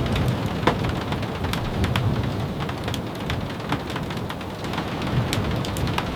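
Steady rain, with scattered sharp ticks and a low rumble underneath.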